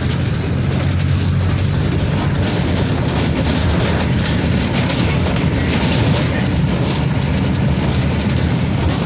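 Mercedes-Benz OF 1722M bus's diesel engine running steadily while the bus is under way, a constant low drone mixed with road and body noise.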